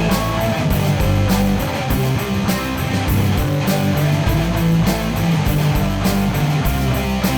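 Instrumental break of a rock-style worship band: electric guitars, bass and drums playing with a steady beat, the singer's held note sliding down and ending right at the start.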